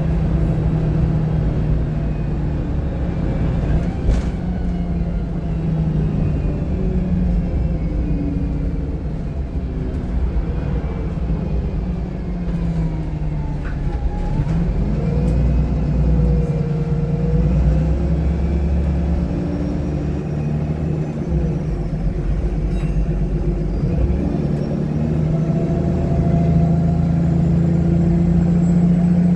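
VDL SB200 bus's diesel engine and drivetrain heard from inside the cabin while under way: a steady rumble whose pitch rises and falls with the road speed and gear changes.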